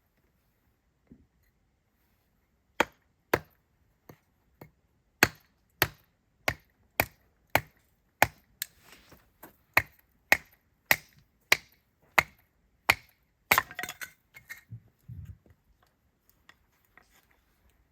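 Firewood being chopped: a run of about seventeen sharp, evenly spaced strikes, roughly two a second, ending in a short clatter of smaller cracks.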